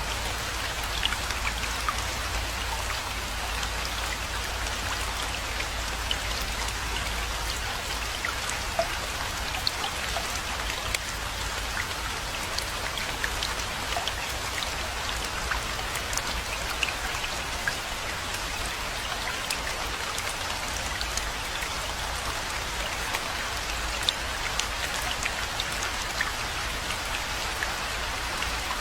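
Steady rainfall, a constant hiss dotted with many distinct drop ticks, over a low rumble.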